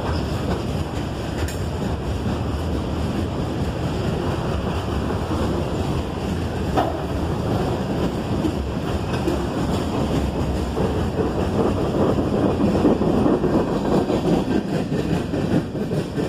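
Freight train cars rolling past on the rails: a steady rumble and clatter of steel wheels on track, with a sharp clank about halfway through, growing louder in the second half.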